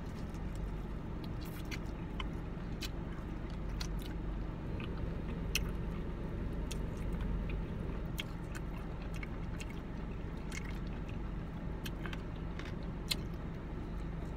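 A person biting and chewing fried chicken, with scattered short, sharp mouth and crunch clicks. A steady low hum runs underneath.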